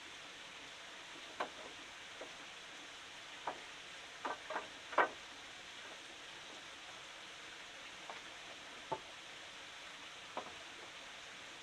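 Light clicks and knocks, scattered and irregular, with a quick cluster of them about halfway through, over a steady hiss.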